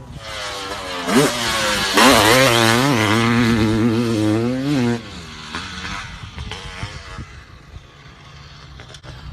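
Honda CR500 single-cylinder two-stroke motocross engine revving. A short blip comes about a second in, then a loud, wavering run at high revs for about three seconds. It then drops off suddenly to quieter low-rev running.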